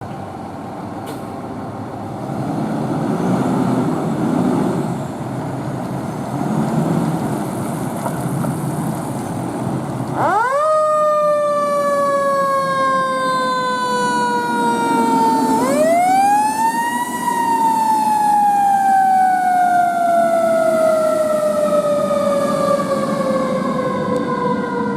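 2018 E-One Typhoon fire engine running, with a heavy rumble. About ten seconds in, its siren winds up sharply and slides slowly down in pitch. About five seconds later it winds up again and falls slowly away.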